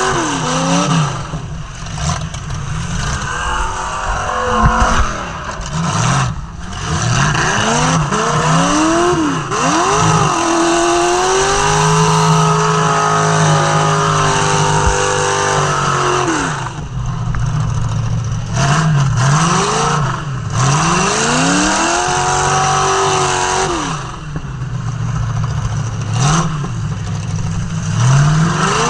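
Demolition derby car's engine revved hard and let fall over and over, the pitch climbing and dropping every second or two with a few longer held revs, over the clatter of cars hitting.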